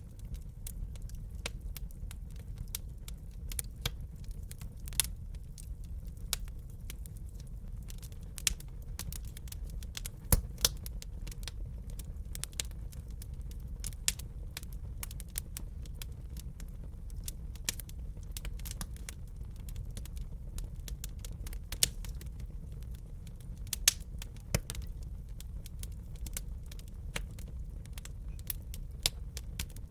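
Wood fire burning in a fireplace: a steady low rumble of the flames with irregular crackles and occasional louder pops, several a second.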